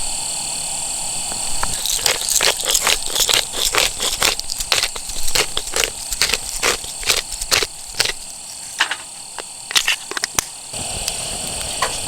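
Sharp, irregular crackles and pops, several a second, from campfire cooking. They start about two seconds in and stop suddenly near the end, over a steady high hiss.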